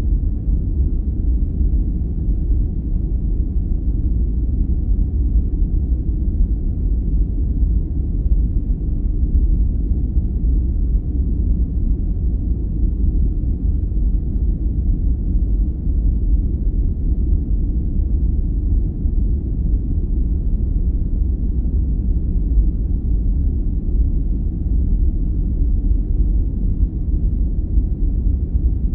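Steady, deep rumbling sleep-aid noise that is unbroken and even, with its weight in the bass and no hiss in the highs.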